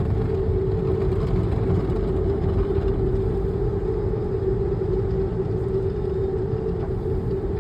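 A machine running steadily: a constant hum over a low rumble, with no change in speed.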